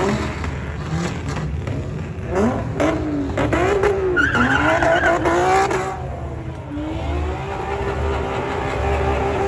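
Car engine revving up and down several times over a steady low rumble, with a higher squealing note for about a second near the middle.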